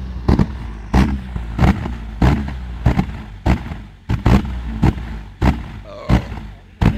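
Car exhaust with a flame-thrower kit firing repeatedly: about a dozen sharp bangs at a steady rhythm over the engine's low running.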